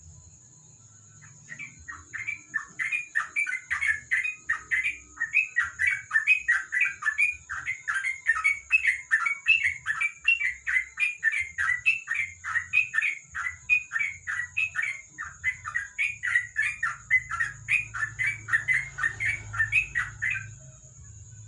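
Sooty-headed bulbul calling: a long, fast run of short chirping notes, about three or four a second, that starts about a second in and stops near the end. A steady high whine runs underneath.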